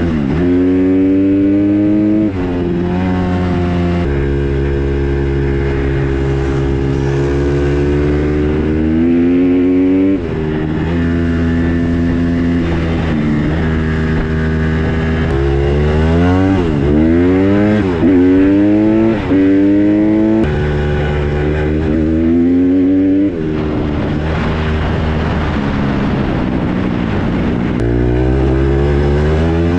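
Honda CRF150R dirt bike's single-cylinder four-stroke engine under hard riding, revving up and dropping sharply in pitch at each gear change several times, with quick rev blips in between.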